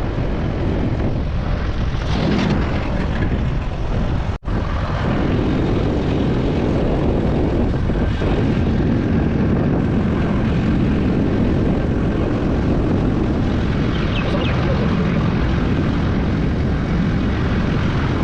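Riding noise from a moving motorcycle: wind rushing over the microphone with a steady low rumble of engine and road. The sound drops out for an instant about four seconds in.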